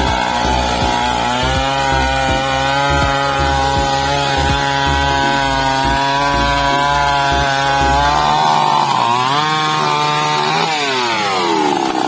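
Two-stroke chainsaw running loud and steady while cutting through a tree, with a low pulsing under the engine note. About eight seconds in the bar comes free, the engine revs up, and then its pitch falls away toward idle.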